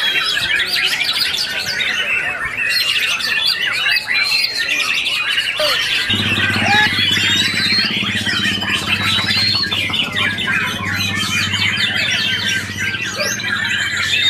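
Many caged white-rumped shamas singing at once, their fast whistles and trills overlapping into a dense chorus. A low steady hum comes in about six seconds in.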